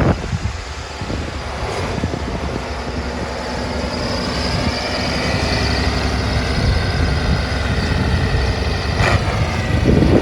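Massey Ferguson 1155 tractor's Perkins V8 diesel engine running steadily, its note climbing a little and growing louder a few seconds in.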